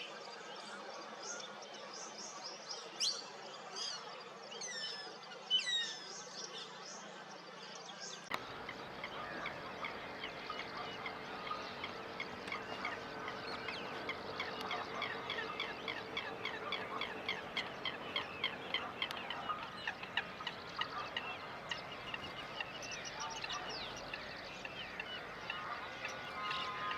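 Birds calling: a few sharp, falling whistled notes, then about eight seconds in a switch to a busier scene where many short calls repeat rapidly in a dense chatter.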